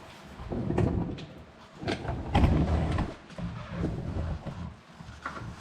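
Irregular scraping and rustling handling noises in three short bursts as a new oil filter is worked by hand onto its mount under a pickup truck's engine.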